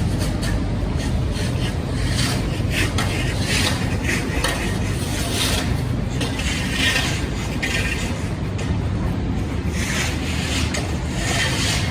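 City street ambience: a steady low rumble of traffic, with irregular short scraping sounds over it that come and go, busiest in the first half and again near the end.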